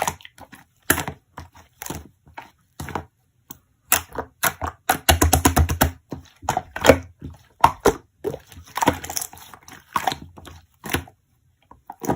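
Slime being pressed and squeezed by hand, giving irregular sharp crackling pops and clicks, with a quick run of pops about five seconds in.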